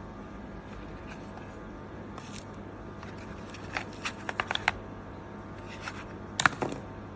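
A steady low hum and hiss with scattered sharp clicks and rustles: a cluster about four seconds in and the loudest pair near the end.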